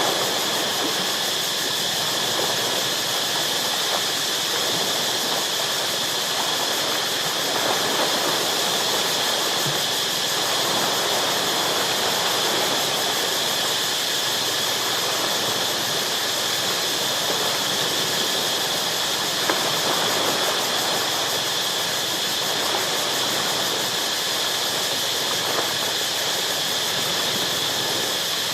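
Ocean waves washing steadily against rocks, swelling gently now and then, with a continuous high-pitched insect drone over them.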